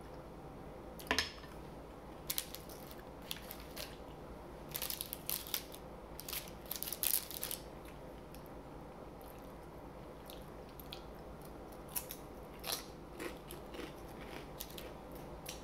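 Chewing and crunching a fried crab rangoon: crisp crackling crunches, densest from about five to seven seconds in, with scattered crunches before and after.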